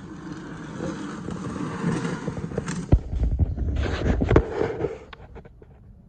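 Handling noise from an aircraft wheel pant being moved about: rustling and scraping, a sharp knock about three seconds in, then a low rumble with a few smaller knocks.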